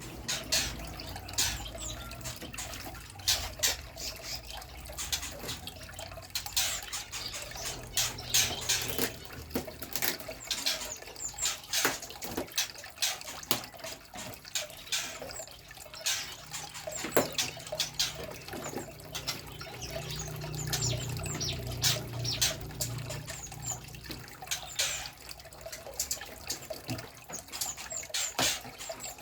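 Small songbirds giving many short, sharp chirps and ticks in irregular succession.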